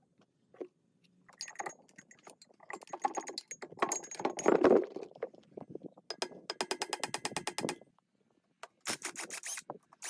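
Hand tools working on metal parts: clattering and scraping clicks, then two runs of rapid, even clicking at about ten a second, in the middle and near the end.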